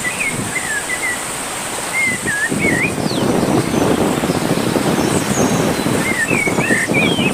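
Rushing river water with birds calling over it: short clusters of whistled, up-and-down chirps near the start, around the middle and near the end, and a steady high-pitched whine behind.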